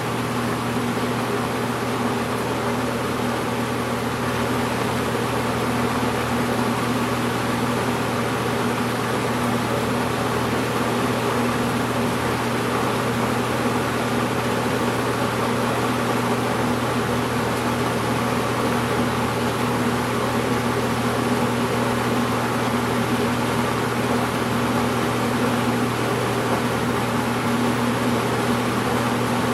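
Edison Thin-N-Lite 20-inch box fan (model 204011B) running steadily: a constant rush of moving air over a low, even motor hum.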